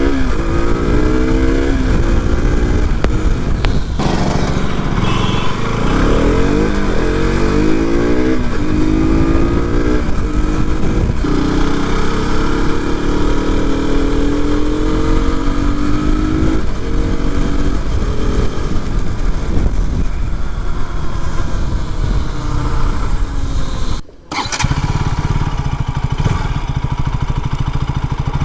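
KTM RC 200's single-cylinder engine under hard acceleration, its note climbing and dropping back again and again as it shifts up through the gears, then holding steadier. About 24 seconds in the sound cuts out for a moment, and afterwards the engine runs at a steady lower note.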